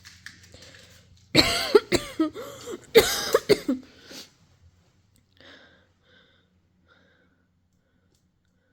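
A person coughing hard in two bouts about a second and a half apart, then a few faint short sounds.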